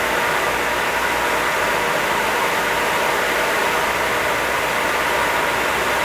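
Northfield No. 8HH 30-inch planer running, its 20 hp direct-drive motor spinning the helical carbide cutterhead: a steady mechanical hum with a faint steady whine.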